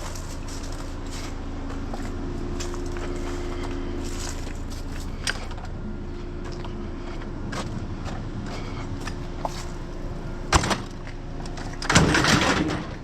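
A vehicle engine idling steadily, with a sharp knock about ten and a half seconds in and a louder rough clatter near the end.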